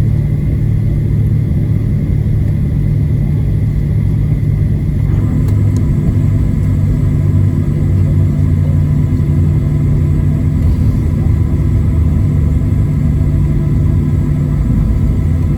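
Cabin noise of a Boeing 737-700 rolling along the ground just after landing: a steady low rumble of the CFM56-7B engines near idle and the wheels on the pavement, heard from inside the cabin.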